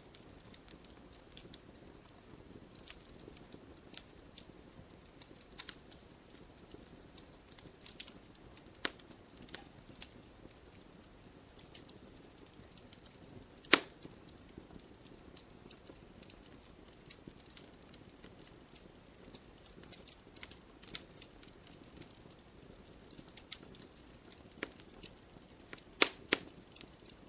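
Wood fire crackling in a fireplace: a low steady hiss with irregular sharp pops and snaps, the loudest a single pop about halfway through and a quick cluster of pops near the end.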